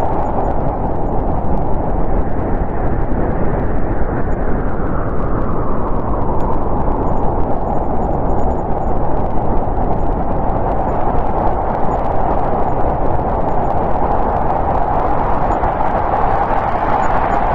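Snowstorm wind blowing steadily, a continuous rushing noise whose pitch sinks lower through the middle and rises again near the end.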